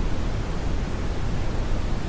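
Steady brown noise for sleep: an even, unbroken deep hiss, heaviest in the bass.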